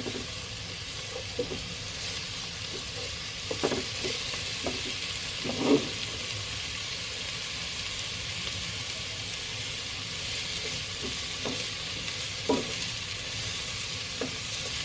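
Chopped onion sizzling steadily in a little oil in a pan, with a scattered handful of short knocks as it is stirred. The onion is being softened, not browned.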